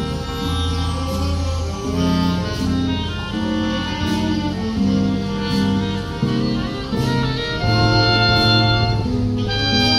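A live jazz band playing a slow tune: a sustained melody over a stepping bass line, with light cymbal strokes.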